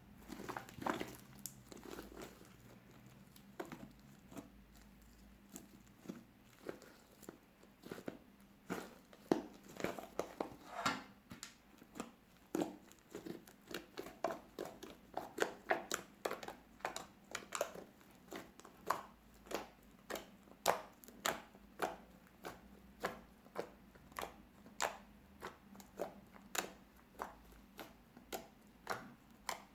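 Fluffy slime made with clear glue and shaving foam being squished and stretched by hand, giving a run of short, sharp crackles and pops. The pops come at about two a second in the second half.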